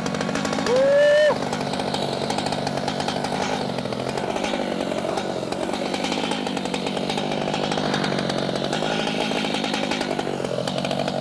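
Stihl MS 881 Magnum two-stroke chainsaw running at full throttle as it cuts through an oak log. It gives one brief, louder rev that rises in pitch about a second in.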